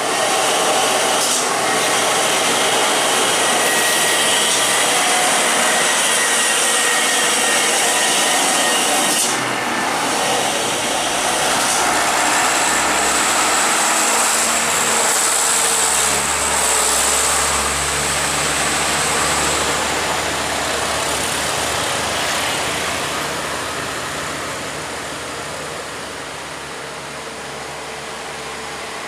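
Heavy trucks and other traffic passing on a steep hill road, engines running, with a high steady whine from about twelve to twenty seconds in and a deep rumble through the middle. The noise eases off in the last few seconds.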